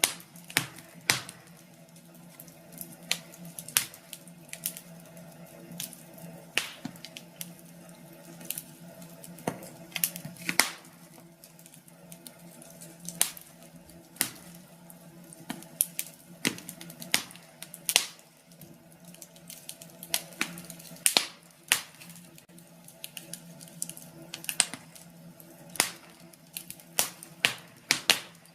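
Wood fire in a fireplace crackling, with irregular sharp pops and snaps over a steady low hum.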